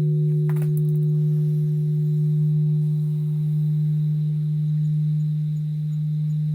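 Japanese temple bell (bonshō) humming on after a strike: a deep, steady ringing tone with fainter higher overtones, slowly dying away. A short bird chirp comes through about half a second in.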